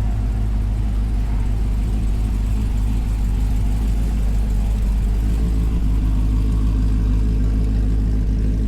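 Car engine idling with a steady low rumble; the note fills out slightly about five seconds in.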